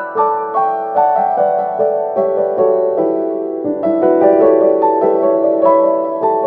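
Background piano music: a gentle melody of single notes over held chords, struck about two to three times a second.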